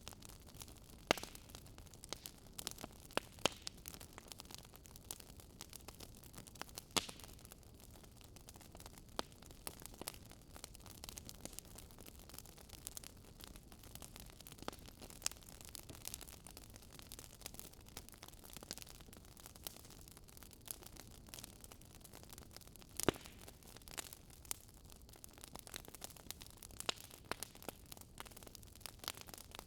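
Fireplace fire crackling: irregular sharp pops and snaps over a soft steady hiss, a few of them standing out louder.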